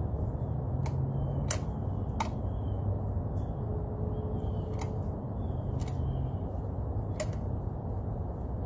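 Outdoor ambience at a bird feeder: a steady low rumble with sharp, irregular clicks and faint short bird chirps.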